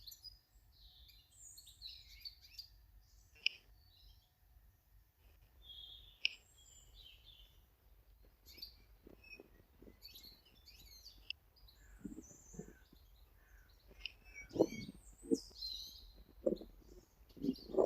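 Small garden birds chirping and calling in short, scattered notes throughout. In the second half a series of soft thumps and knocks comes in, the loudest events here.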